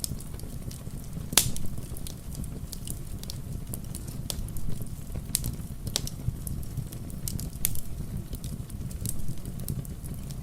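Wood fire in a fireplace crackling, with irregular sharp pops over a steady low rumble; the loudest pop comes about a second and a half in.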